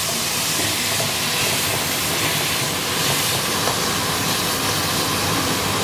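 Onions, bell peppers and sauces sizzling steadily in a hot metal wok on a high flame as they are stirred with a silicone spatula, soy sauce just added.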